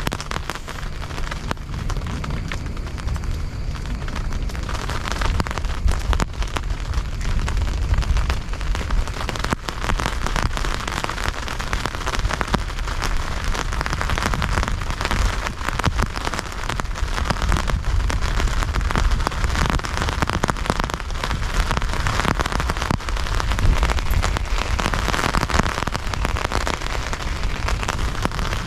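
Heavy rain falling steadily, a dense mass of drops striking a surface as a constant hiss flecked with small ticks.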